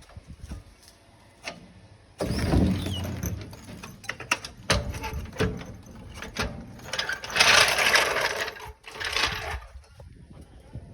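Mechanical work noise: a machine starts abruptly about two seconds in and runs in bursts, mixed with sharp metallic clanks and knocks, loudest and harshest a little past the middle.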